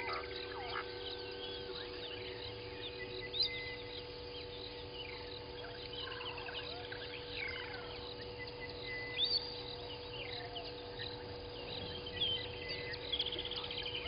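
Several wild birds calling at once: overlapping chirps, short whistles and rapid trills, with a few louder calls standing out. A steady electrical hum runs underneath.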